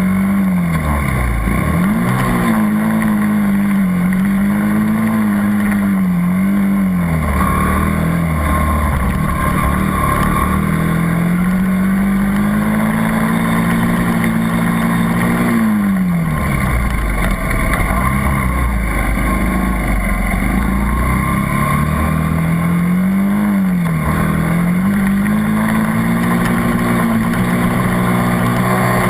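80cc dirt bike engine running hard, its pitch dropping away and climbing back about four times as the throttle is rolled off and opened again.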